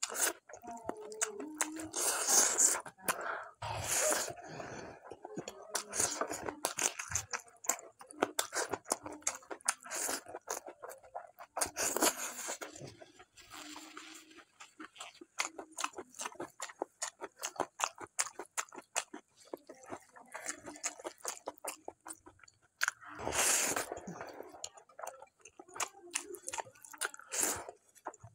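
A person chewing mutton curry and dhido, with many small wet clicks and smacks from the mouth and a few louder bites.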